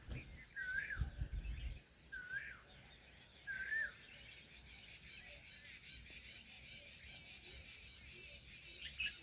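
A bird calling: four short, thin whistled notes that rise and fall, spread over the first four seconds. A low rumble on the microphone runs under the first two seconds, and after that there is only a faint steady chirring in the background.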